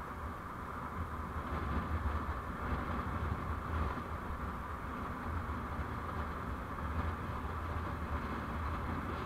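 Steady vehicle driving noise as picked up by a dashcam: a continuous low engine and road rumble with an even hiss above it.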